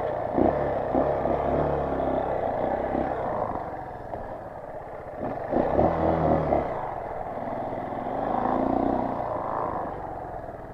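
Dirt bike engine running at low speed, its revs rising and falling a few times with the throttle.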